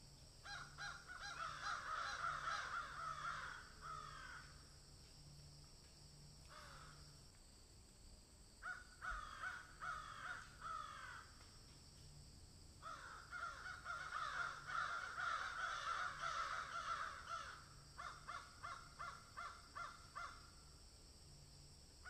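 Faint bird calls in several bursts of quick, repeated notes, with gaps of a few seconds between them.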